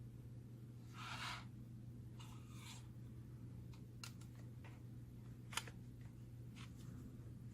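Small parts being handled on a workbench: scattered light clicks, one sharper click about five and a half seconds in, and two brief scraping rustles in the first three seconds, over a steady low hum.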